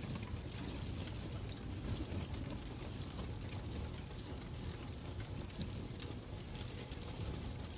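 Fireplace crackling: a steady low rumble of the fire with frequent irregular sharp pops and snaps.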